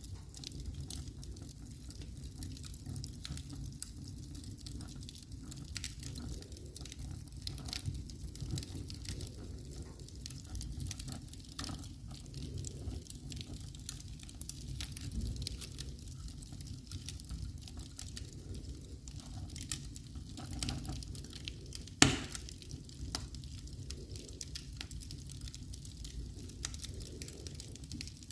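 Wood fire crackling in a fireplace: a steady low rumble of flames under many small crackles and ticks, with one loud pop about three-quarters of the way through.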